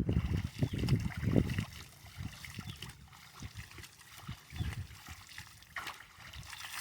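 Water trickling and splashing, with low rumbling thuds strongest in the first second and a half.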